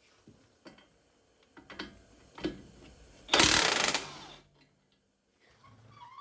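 Tools working on the upper 24 mm knuckle bolts of a car's front suspension: scattered metallic clicks and knocks, then a loud noisy burst lasting under a second about three and a half seconds in.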